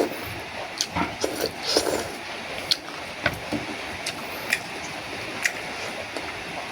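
Close-up eating sounds: a person chewing food, with many short wet clicks and smacks spaced irregularly.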